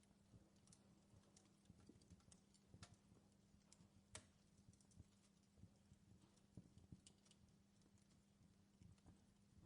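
Faint crackling of a fireplace fire: irregular small pops and snaps, a few sharper than the rest, over a low steady hum.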